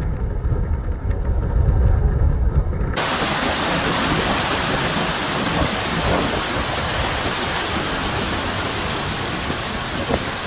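Typhoon storm noise: a deep low rumble of wind for about three seconds, then an abrupt change to a dense, steady hiss of heavy wind-driven rain.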